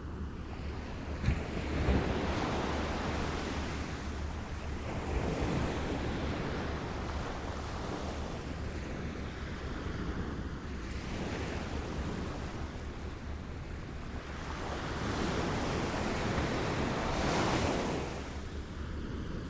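Small waves lapping at the shore, each one washing in and drawing back every few seconds. Two sharp slaps come about a second or two in, and a low wind rumble on the microphone runs underneath.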